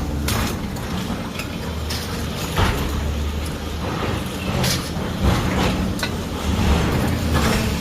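Heavy diesel machinery running with a steady low drone, with irregular knocks and clatter over it, typical of demolition debris being worked.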